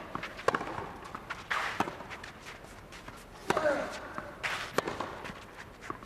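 Tennis rally on a clay court: sharp racket strikes on the ball a few times, with a player's short grunt on a shot about three and a half seconds in.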